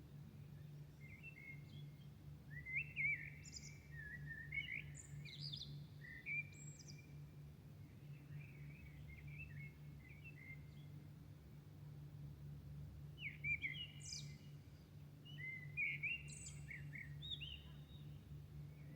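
Songbirds singing at dawn: warbling phrases, several ending in high squeaky notes, in two bouts about two and thirteen seconds in. A steady low hum runs underneath.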